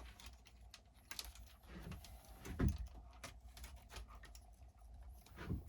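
Scattered light clicks and taps of small RC truck parts being handled, with one duller knock about two and a half seconds in.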